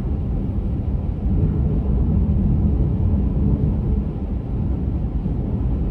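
Steady low rumble of a car driving at highway speed: road, tyre and engine noise heard from inside the cabin.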